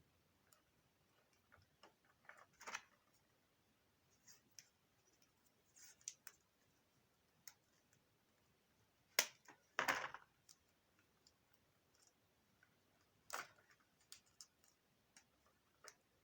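Scattered light clicks and knocks of vacuum-cleaner parts being handled during reassembly, with sharper clacks about nine and ten seconds in and again around thirteen seconds; the motor is not running.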